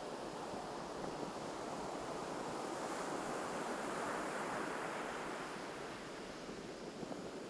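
Ocean waves breaking and washing up a beach: a steady surf wash that swells to a peak midway and then eases off.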